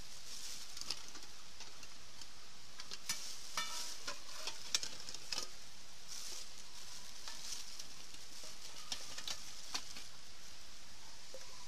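Hamburg steak sizzling as it cooks over a campfire: a steady high hiss with scattered sharp pops and clicks.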